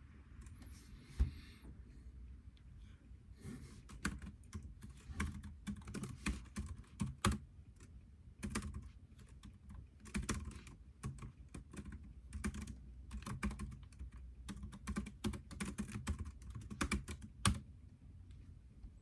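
Computer keyboard typing in quick bursts of keystrokes, with short pauses between bursts. It starts a few seconds in, after a single knock about a second in, and stops shortly before the end.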